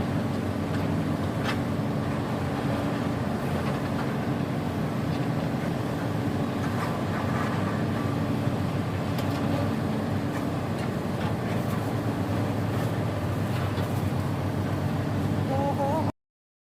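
Tugboat diesel engine running steadily with a low drone; it cuts off suddenly near the end.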